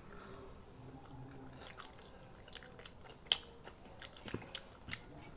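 Close-miked chewing of momos: short, quiet mouth clicks and smacks, sparse at first and coming more often from about three seconds in.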